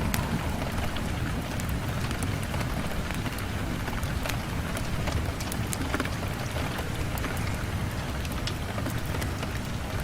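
Steady rain falling on a window, with scattered sharp drop taps over a constant low rumble.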